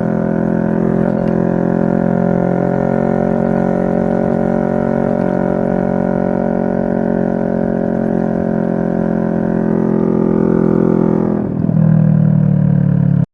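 2023 CFMoto 650NK parallel-twin engine running at a steady speed. About eleven seconds in, it dips and settles into a lower, steady drone, then cuts off abruptly.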